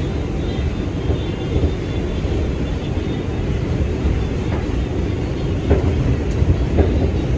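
New York City subway train running between stations: a steady low rumble, with a few sharp knocks in the second half.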